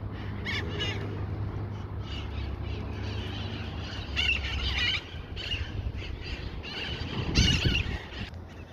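Small parrots (parakeets) giving harsh, squawking calls in short bursts, the loudest near the end, over a steady low rumble that fades about halfway through.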